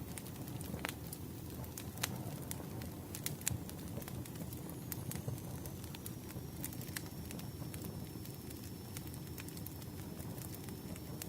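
Campfire burning: a steady low rumble of flames with scattered sharp crackles and pops of burning wood. A faint high thin whistle comes in about four seconds in and holds.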